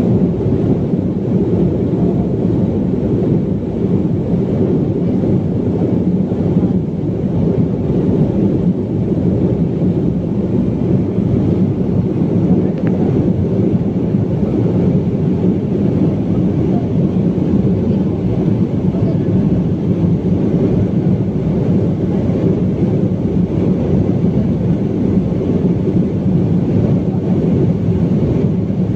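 Steady low rumble of a BAe 146 jet airliner's engines and airflow, even in level throughout.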